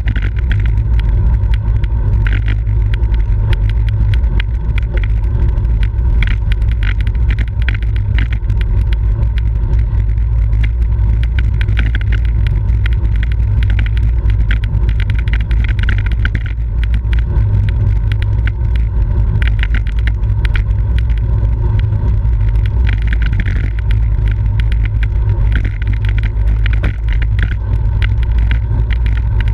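Heavy, steady wind buffeting on the microphone of a camera riding on a racing bicycle at speed, with a constant patter of small clicks and rattles from the bike and road.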